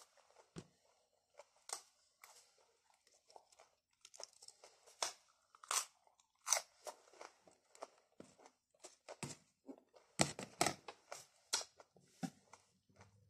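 A person chewing crisp raw salad leaves close to the microphone: irregular short crunches.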